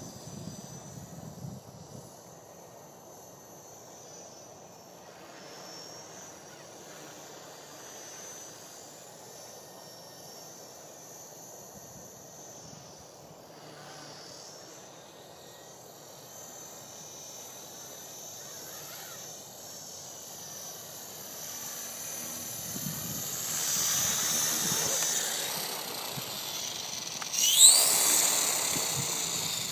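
Small electric RC helicopter (Blade SR) whining steadily in flight, growing louder in the last third. A sharp rising whine near the end marks the rotor spooling up as it comes close. Wind buffets the microphone in low rumbles at the start and end.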